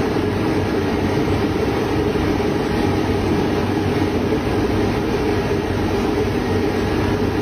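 Steady, even machine noise with a strong low rumble, unchanging throughout.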